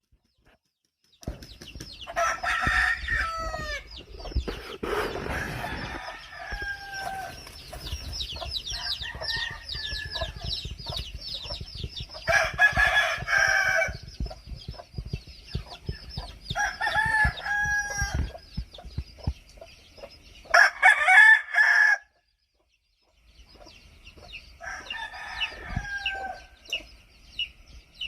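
Game roosters crowing about four times, each crow about a second and a half long, with chickens clucking and calling in between. The sound cuts out briefly twice.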